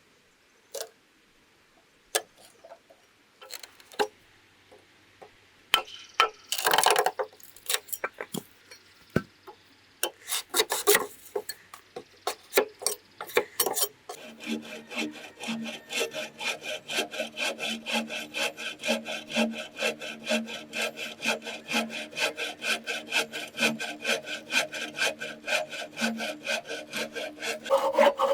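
Saw cutting bamboo: scattered knocks and short bursts of sawing at first, then from about halfway a steady run of rapid, even saw strokes with a ringing tone from the hollow pole.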